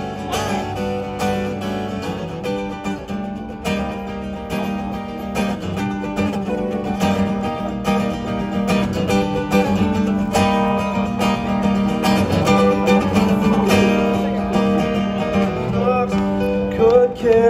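Acoustic guitar strummed in a steady rhythm, an instrumental passage of the song with no singing.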